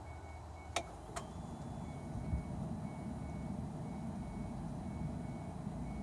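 Ford Escape's dashboard warning chime beeping about twice a second, broken by two sharp clicks about a second in. From about two seconds in a low rumble sets in as the starter turns the engine over weakly without it catching: a no-start that the owner suspects is the alternator.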